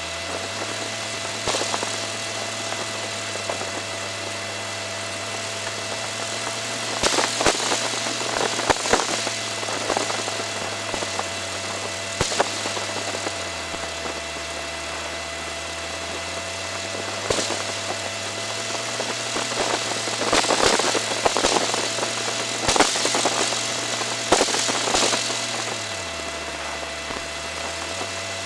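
Propeller aircraft engine running, heard from inside the cockpit. Its drone dips lower in pitch twice and comes back up, under a steady high whine, with stretches of rushing noise and sharp clicks partway through and again near the end.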